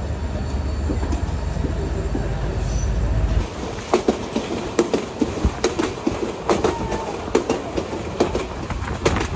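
Korotoa Express passenger train running along the line. A steady low rumble drops away suddenly after about three seconds, giving way to irregular sharp clacks and knocks from the wheels on the track.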